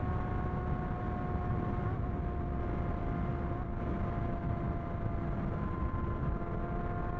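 Sport motorcycle engine holding steady revs at cruising speed, with heavy wind rumble on the microphone.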